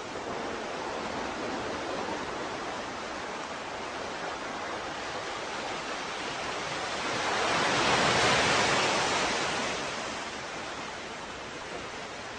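Ocean waves on a shore: a steady wash of surf, with one wave swelling and breaking past the middle, then fading away.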